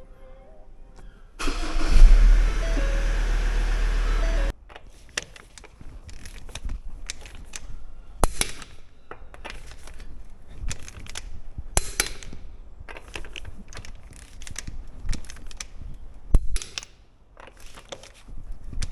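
A vehicle engine starting and running loudly for about three seconds, then cutting off suddenly. After it come irregular clicks and knocks of workshop work.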